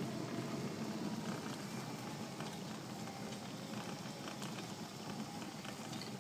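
Motorized wheelchair moving along a road: a steady electric-motor and tyre rolling noise with small scattered ticks and rattles.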